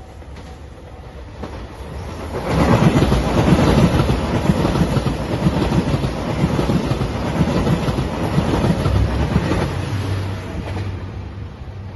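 A JR Shikoku 2700 series diesel limited express train passing close by on the track. It grows suddenly loud about two and a half seconds in, stays loud for several seconds, then fades near the end.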